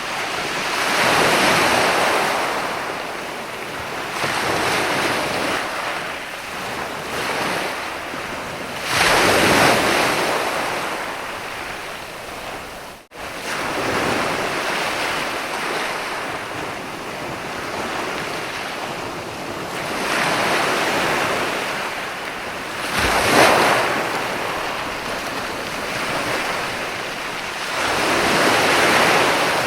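Sea waves breaking and washing up a sandy beach, the surf swelling into a fresh surge every several seconds over a steady hiss, with some wind on the microphone. The sound cuts out abruptly for a split second a little before the middle.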